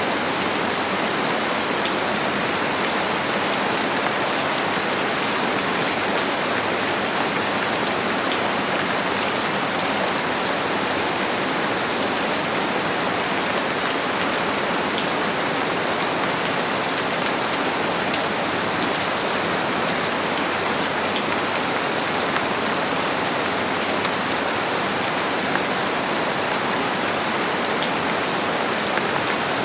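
Steady rain falling, a constant even hiss with fine patter of drops striking a surface.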